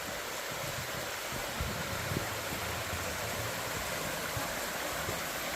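Steady rush of flowing water from a mountain stream or waterfall.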